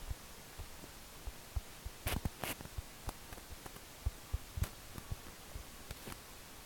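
Faint scattered knocks and light taps from a phone being handled and tapped while drawing, with two short rustles about two seconds in.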